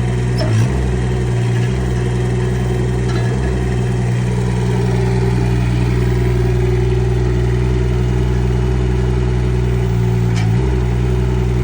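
Rippa R15 mini excavator's engine running steadily, with a brief dip in its note and a sharp click about half a second in and again near the end.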